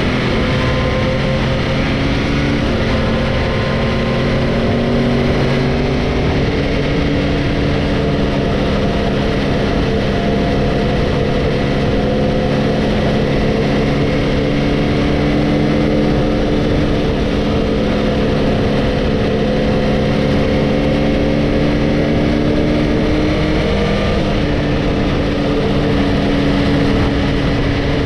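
Motorcycle engine running steadily at an even pitch, with wind and road noise, as the bike is ridden. The pitch shifts slightly about 23 seconds in.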